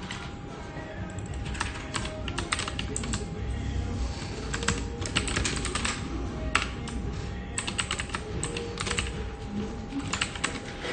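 Office computer keyboard being typed on in quick clattering bursts of keystrokes with short pauses between them, over a steady low room hum and a faint steady tone.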